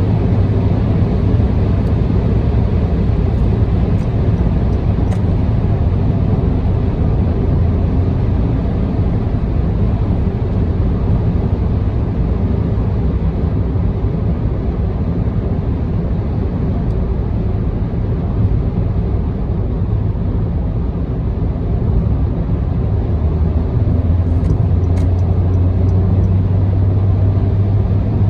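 Car driving along an expressway: steady tyre and road rumble with a low engine drone, heard from inside the car. The low drone grows stronger in the last few seconds.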